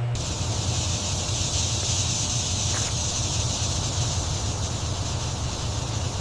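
A steady, even low rumble with a high hiss over it, with no clear strokes or changes.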